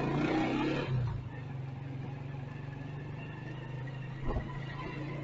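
Motorcycle engine running at a steady pitch, louder with added road noise for about the first second, with a short thump about four seconds in.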